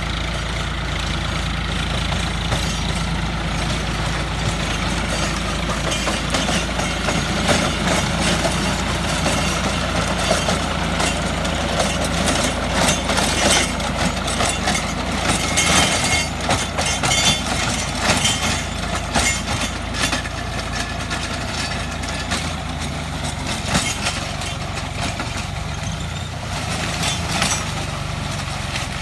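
Tractor engine running steadily under load while driving a rotary tiller (rotavator) through weedy ground. Through the middle of the stretch there is a run of sharp clattering and cracking.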